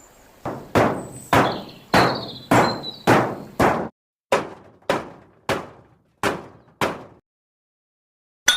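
Hammering: about a dozen sharp blows at roughly two a second, each ringing briefly, stopping about seven seconds in, followed near the end by a quick clatter of small clinks.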